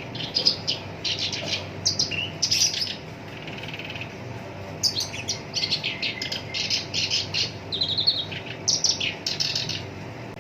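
Black-browed reed warbler singing a harsh, rapid chattering song in two runs: one for the first three seconds, then, after a short pause, a longer run from about five seconds in.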